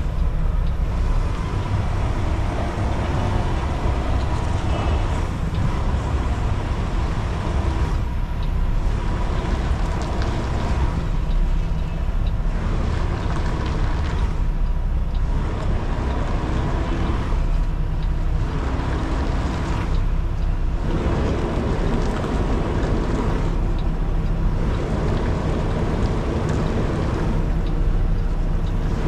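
Kenworth T680 semi truck's diesel engine running at low speed as the rig creeps through a backing manoeuvre: a steady low rumble heard from inside the cab.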